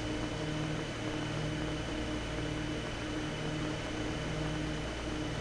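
Steady cabin drone of the Piper Chieftain's twin piston engines and propellers in cruise, an even rushing noise with a low hum that pulses regularly.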